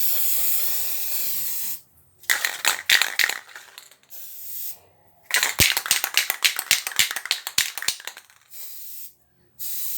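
Aerosol can of Rust-Oleum Appliance Epoxy spray paint hissing steadily for almost two seconds, then two long runs of quick clicking and rattling from the can, which is nearly empty.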